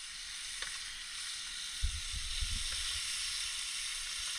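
Sliced onions sizzling in olive oil in an aluminium pan on a portable camping stove, a steady hiss, with a few low thumps about two seconds in.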